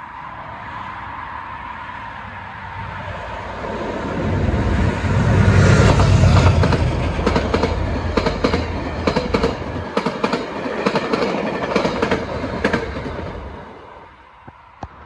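A Metro-North commuter train passes close by. Its rumble builds to a peak about five to six seconds in, followed by a quick run of clickety-clack as the coach wheels cross the rail joints. The sound falls away suddenly near the end as the last car goes by.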